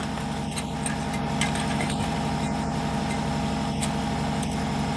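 Air compressor running steadily with an even hum, with a few faint clicks over it.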